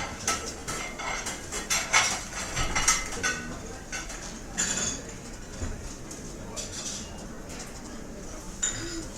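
Restaurant ambience: cutlery and dishes clinking, with a busy run of clinks over the first three seconds or so and sparser ones after, over a steady low background of room noise.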